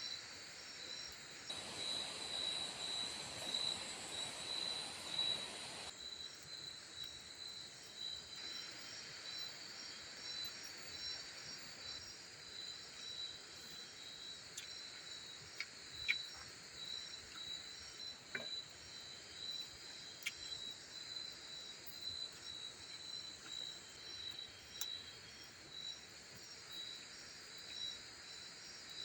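Tropical forest insects, crickets, trilling steadily in a fast pulsing chorus. A rushing hiss rises for a few seconds near the start, and a few faint clicks come later.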